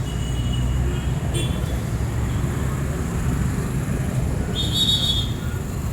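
Street traffic: a steady low engine rumble from passing vehicles, heaviest in the first second. A short high-pitched tone sounds about four and a half seconds in.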